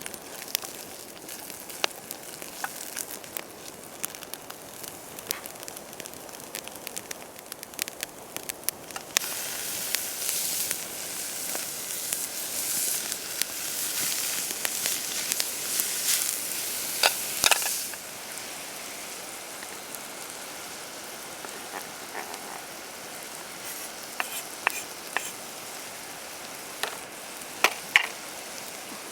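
Food sizzling in a pan over a wood campfire, with sharp crackles and pops throughout. The sizzle grows louder about a third of the way in, holds for several seconds, then drops back to a softer hiss.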